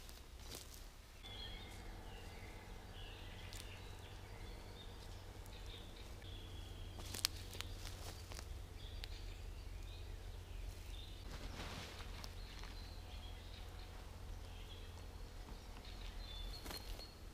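Quiet forest ambience: scattered short bird chirps over a low steady rumble, with a single click about seven seconds in.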